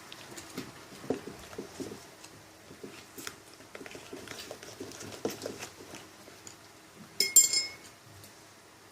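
Spoons stirring slime in bowls, with scattered light taps and scrapes, and one sharp ringing clink a little after seven seconds in.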